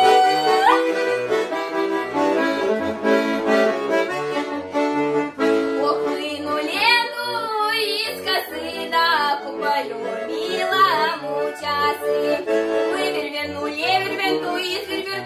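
Accordion playing an instrumental interlude of a Russian folk song: a melody over sustained chords, with bass notes sounding on an even, repeating beat.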